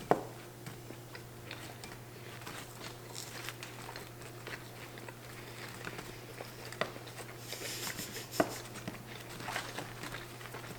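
Chicken nuggets being bitten and chewed up close, with scattered small clicks of eating and a brief rustle about eight seconds in. A faint steady hum runs underneath.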